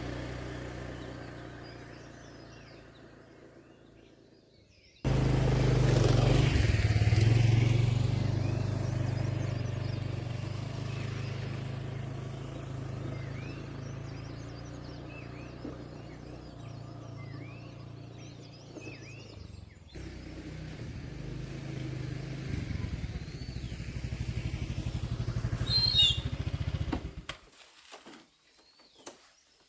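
A motor vehicle engine running with a low, steady hum that swells and fades in several stretches, each ending abruptly, while small birds chirp in the background.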